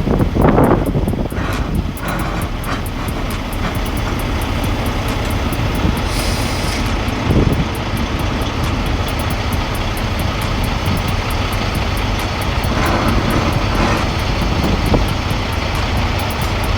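A large engine running steadily with a low, even hum and a fast, regular ticking, with a couple of brief knocks.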